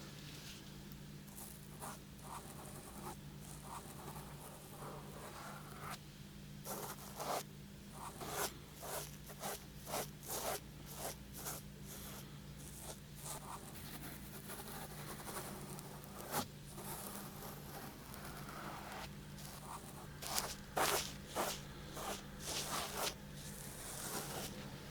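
Fingers rubbing and scratching close to a 3Dio binaural microphone's ears in short, quick strokes, coming in runs of about two a second, over a steady low hum.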